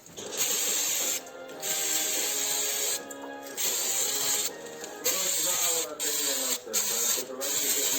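Repeated bursts of hissing spray, each lasting about half a second to a second and a half, with short gaps between them, over music playing from a radio.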